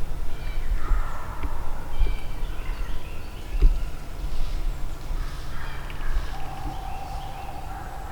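Wild turkeys calling among other birds of the spring woods, with a gobble-like burst about a second in. A steady low rumble runs underneath.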